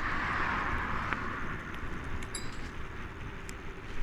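Wind and road noise from an e-bike climbing a hill under throttle: a steady low rumble with a hiss that fades over the first second or two.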